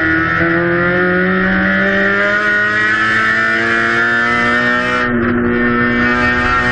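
Race car's Honda K20/K24 four-cylinder engine at full throttle on a circuit lap, its pitch climbing steadily as revs build. It briefly eases about five seconds in, then pulls on.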